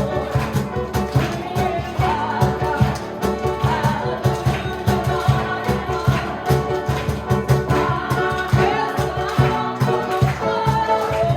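Student musicians performing a gospel song: voices singing over instruments with a steady beat.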